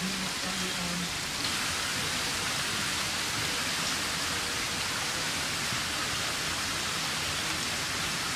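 A steady, even hiss, a little louder from about a second and a half in.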